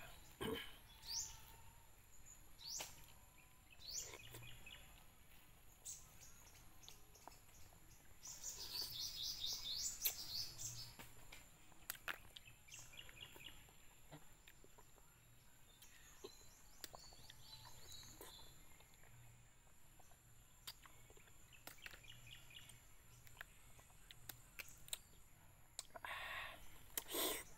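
Birds chirping and singing faintly, with a louder run of rapid high chirps about eight to eleven seconds in. Scattered faint clicks come in between, and a short louder noise comes near the end.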